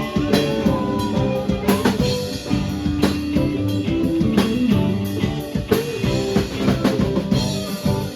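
A rock band playing an instrumental passage: drum kit hits with steady bass drum under sustained electric guitar and bass notes.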